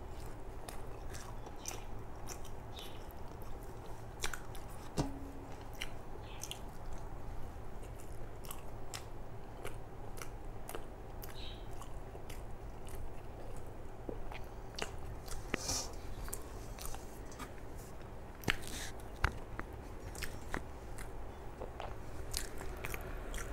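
Close-miked chewing of a mouthful of rice and curry, with many irregular small wet clicks and snaps from the mouth.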